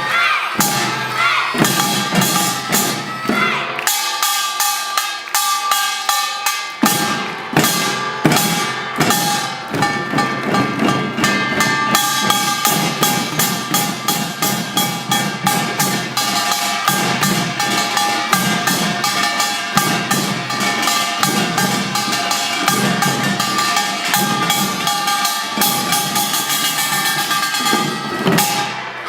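Samulnori percussion played by young children: kkwaenggwari and jing gongs ringing over janggu and buk drums beating a fast, steady rhythm that stops shortly before the end.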